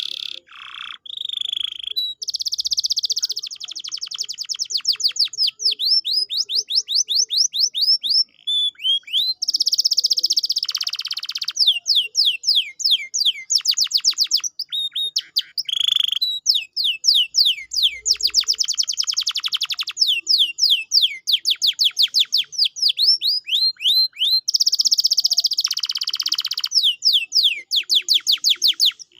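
Domestic canary singing a long song of fast trills: rapid runs of repeated downward-sweeping notes, the phrases changing speed, with brief pauses between them.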